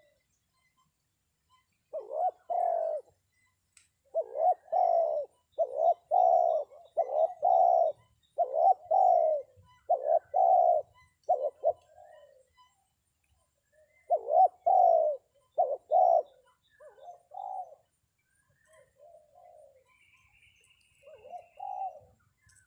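Spotted dove (terkukur) cooing in repeated low, rolling coo phrases: a decoy's lure call to draw wild doves down. The coos come in a long series with a short break in the middle and turn quieter and sparser near the end.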